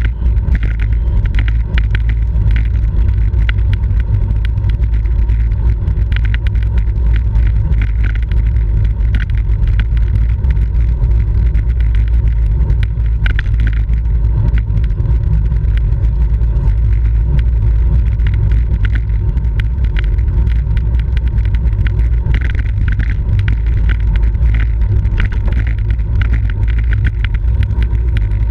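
Steady low wind buffeting on a bicycle-mounted camera's microphone, with road and drivetrain noise and faint clicks, from a bike ridden at race speed.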